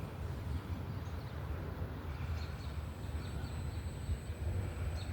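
Wind buffeting the microphone, a steady uneven low rumble, over faint outdoor ambience, with a faint steady high whine throughout and a few faint chirps about halfway through.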